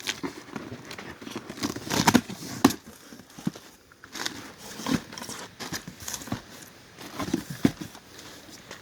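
Packaging being handled: crinkling and rustling with scattered knocks and taps, loudest about two seconds in and again near the end.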